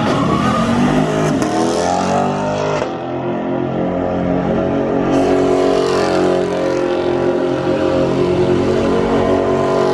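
Car engine revving hard, its pitch swinging up and down for the first few seconds, then held at high revs in a steady drone. A hiss joins in about halfway through.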